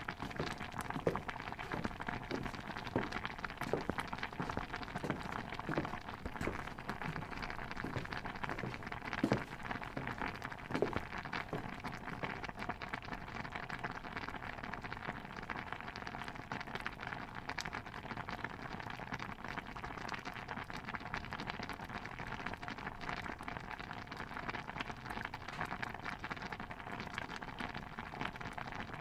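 A pot of stew bubbling steadily: a dense run of small pops and crackles, with a few sharper, louder pops in the first half.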